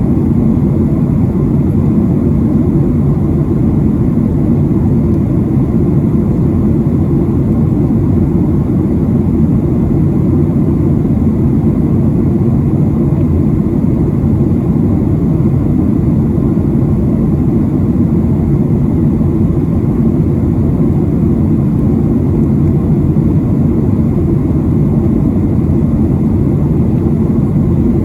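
Steady cabin noise of a Boeing 737-700 in flight on descent: a loud, even rumble of airflow and its CFM56 jet engines.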